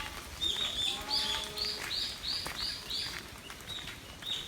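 A forest bird calling a quick series of short, arched high notes, about three a second, the run fading out after about three seconds.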